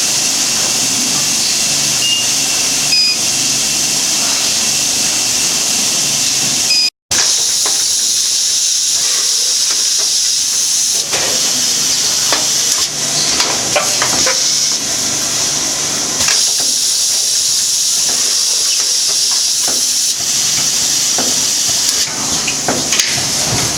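Automatic vacuum packing machine running: a steady hiss of air with scattered mechanical clicks and clacks, cut off for an instant about seven seconds in.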